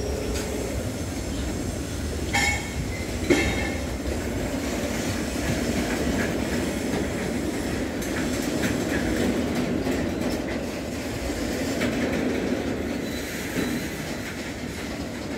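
Oil tank wagons of a freight train rolling slowly past, about 15 km/h, with a steady rumble and clickety-clack of wheels on the rails. Two brief sharp metallic sounds come from the wagons about two and three seconds in.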